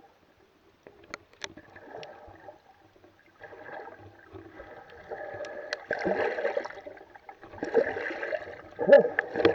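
Water splashing and gurgling against a kayak, with a few sharp knocks in the first seconds. It grows louder from about a third of the way in and is loudest near the end.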